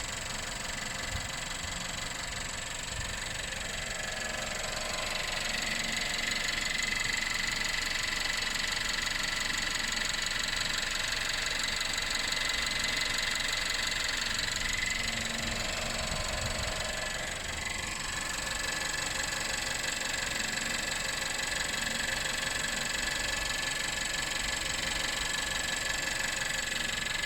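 Suzuki Vitara 1.4 Boosterjet turbocharged petrol four-cylinder idling steadily with a clattery sound like a diesel. At only 11,000 km the owner is unsure whether this is normal.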